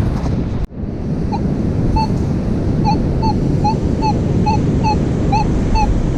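Wind and surf noise on the microphone, with a Minelab Manticore metal detector beeping a short mid-pitched tone about twice a second, from a little over a second in, as the coil passes back and forth over a buried target. The sound drops out for an instant just under a second in.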